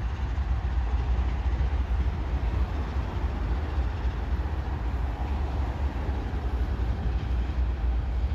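Norfolk Southern freight train passing: diesel locomotives rumbling by, then freight cars rolling along the rails, heard as a steady low rumble.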